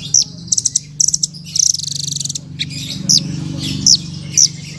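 Songbird singing: loud, sharp high chirps and quick trills, then several short down-slurred whistled notes spaced about half a second apart near the end.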